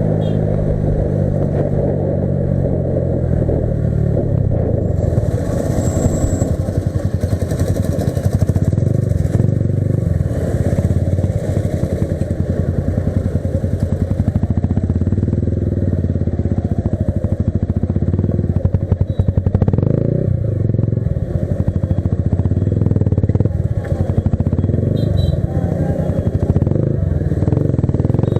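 Modified Yamaha R15 V3's 155 cc single-cylinder engine running continuously, its pitch shifting slightly up and down.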